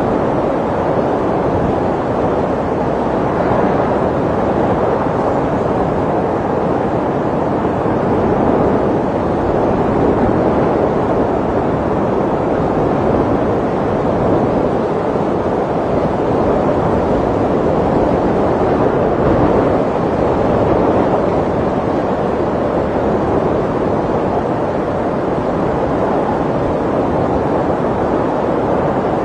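Snowstorm wind blowing in a steady rush, swelling gently now and then.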